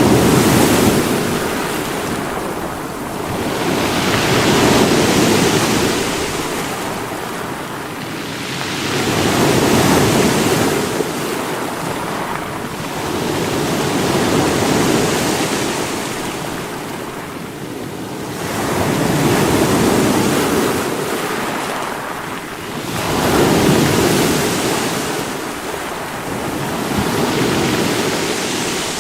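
Sea waves breaking on rocks, each surge swelling and washing back, about every four to five seconds.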